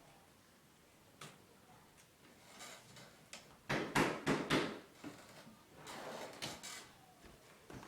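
Knocking on a door: a quick run of about four loud knocks about four seconds in, with fainter knocks and clicks around them.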